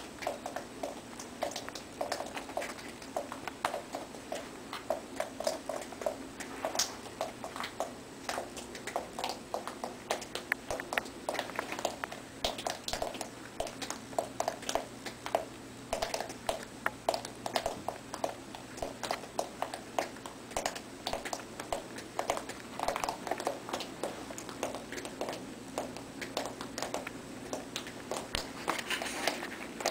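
Water from a ceiling leak dripping fast into a pan of collected water: a dense stream of irregular plops and plinks, several a second.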